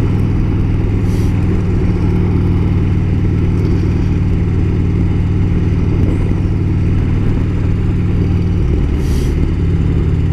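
Motorcycle engine running at a steady pitch, heard from the rider's own bike, with a slight change in the engine note near the end.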